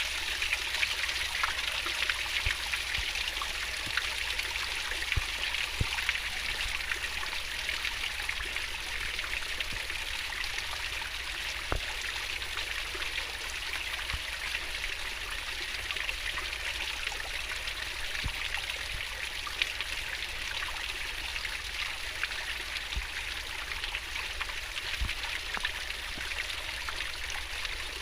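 Water in a stream flowing fast and splashing, a steady rushing sound with small drips and plops scattered through it.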